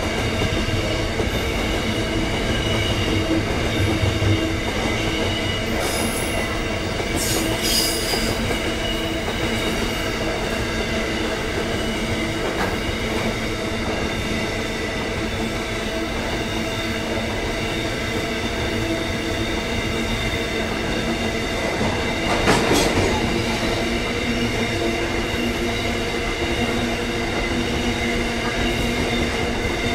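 Container freight train wagons rolling past on the rails, with a steady ringing squeal from the wheels over the rolling noise. A few sharper clanks come about 7 seconds in and again around 23 seconds.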